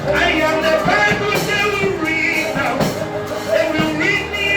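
Live gospel worship music: a singing voice over a band, with drum hits keeping a steady beat.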